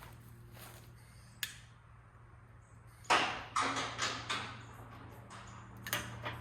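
Handling sounds from loading a homemade water-heater smoker, over a steady low hum. A single click comes first, then about three seconds in a quick run of four or five clattering knocks and scrapes, and two more clicks near the end.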